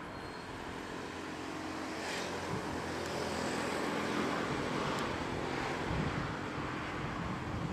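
Road traffic noise: a steady rush of passing vehicles that slowly grows louder, with a low engine hum under it at first.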